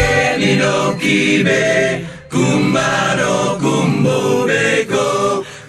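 Song music: a group of voices singing a chant-like passage with the band's bass and drums dropped out, with a short break about two seconds in.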